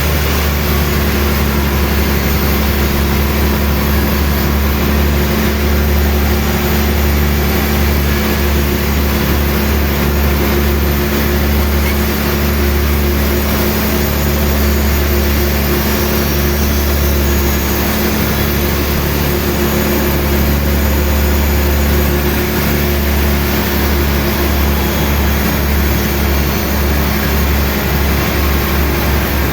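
A heavy machine's engine running steadily at an even speed, a low, constant hum.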